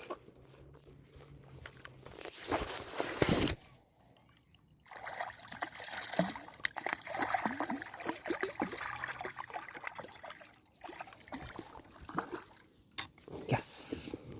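Water sloshing and splashing at the side of a jet ski, with irregular bumps and rustles as a small fish is handled and let go.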